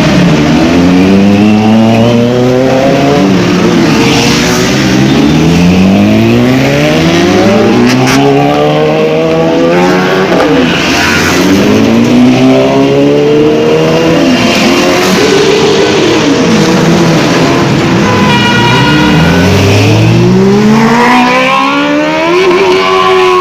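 High-revving motorcycle engines accelerating hard through the gears, one after another, each pitch climbing in steps and then dropping away as the bike passes. Several are heard in turn, overlapping, with a brief steady high-pitched tone about three-quarters of the way in.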